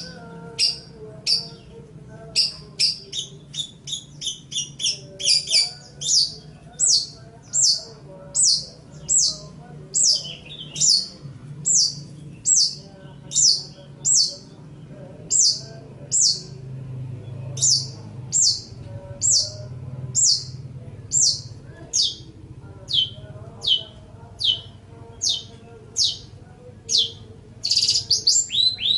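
Long-tailed shrike (cendet) calling: a long series of short, sharp, high notes, each dropping in pitch, about two a second, with a denser burst of chatter near the end.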